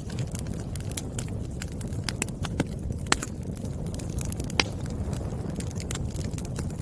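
Burning firewood crackling and popping over a steady low rumble of the flames, with two sharper pops about three and four and a half seconds in.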